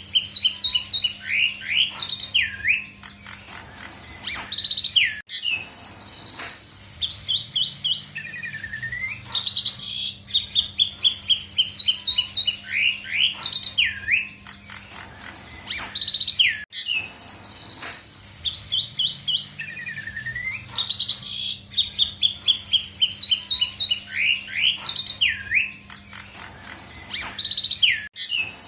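Asian pied starling (jalak suren) singing a busy, varied song of clear whistles, rapid trills and notes that sweep up and down. The same sequence repeats about every eleven and a half seconds over a faint steady hum.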